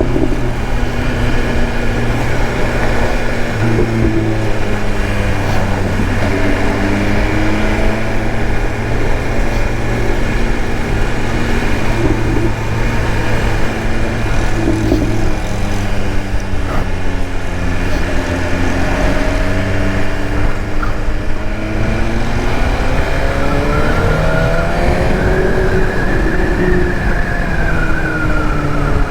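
BMW S1000RR inline-four engine running on the move, its pitch rising and falling with the throttle several times, over a steady road and traffic drone.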